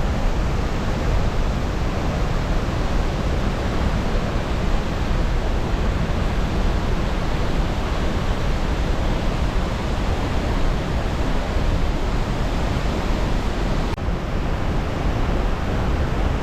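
Steady rushing roar of a tall waterfall, a 64-metre plunge of water crashing into its pool.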